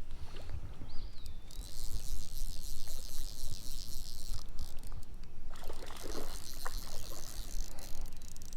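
Stream water splashing and trickling close by as a landed rainbow trout is handled in the water, loudest from about one and a half to five and a half seconds in, over a low rumble.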